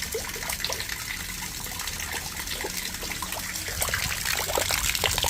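Rainwater trickling and dripping steadily, with many small splashes.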